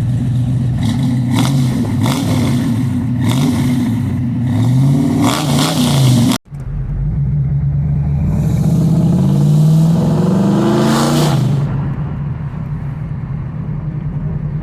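A car engine, the 1984 Buick Regal's, being revved several times, its pitch rising and falling. About six seconds in the sound cuts abruptly to a second take: the engine revs up again and settles to a steady run.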